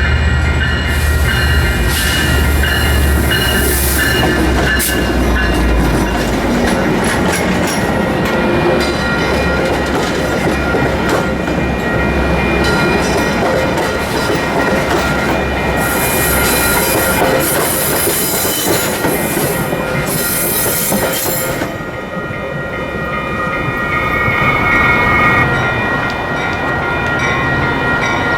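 Metra diesel commuter train moving through the station trackwork: a low locomotive rumble fades over the first few seconds, while the wheels squeal with steady high tones and several bursts of high screeching, and click over rail joints.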